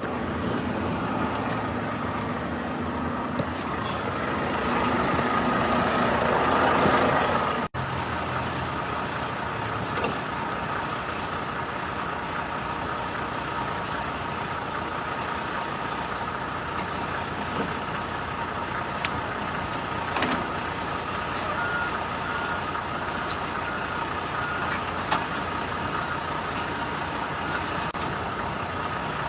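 Semi truck's diesel engine running steadily while the truck is driven, with a faint series of short beeps about two-thirds of the way through.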